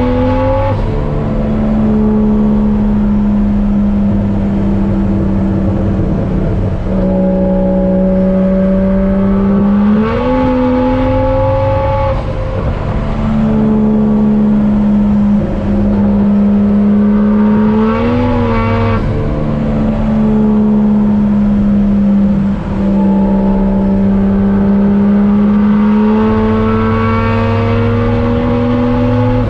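Single-turbo Toyota 1JZ-GTE VVT-i inline-six running under way, loud inside the car's cabin: the engine note holds steady, then climbs briefly and drops three times, near the start, about ten seconds in and about eighteen seconds in. Each drop comes with a short rush of air from the blow-off valve.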